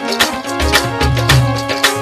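Rajasthani folk music with a steady, loud drum beat and a held melody over it, without singing.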